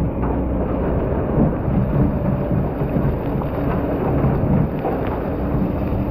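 Excavator's diesel engine running under load while it digs sand, a steady low rumble with a few short knocks scattered through it.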